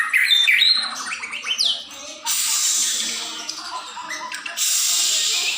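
Songbird singing in quick chirps and falling whistled notes, followed about two seconds in by a loud harsh hissing noise that lasts a couple of seconds and starts again abruptly near the end.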